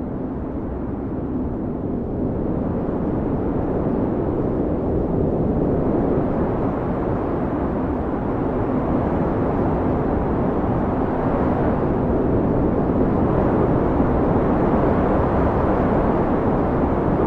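Howling blizzard wind blowing as a deep, steady rush, swelling in slow gusts about a third of the way in and again later.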